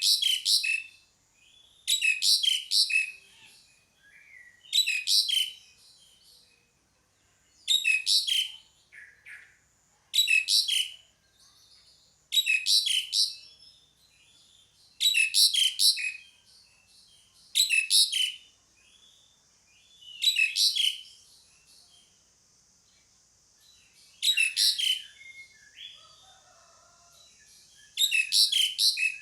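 Pied starling (jalak suren) giving loud, harsh high-pitched calls in short phrases of about a second, repeated roughly every two to three seconds, with a faint steady hiss between phrases.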